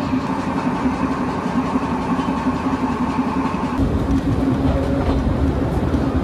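Train running with a steady engine drone; a heavier low rumble joins it about four seconds in.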